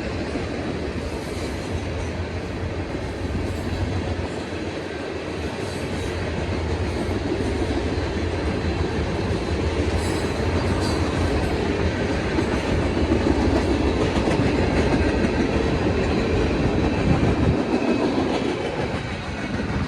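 Freight train rolling past, its wheels clicking over the rail joints over a steady low rumble; the rumble drops away near the end.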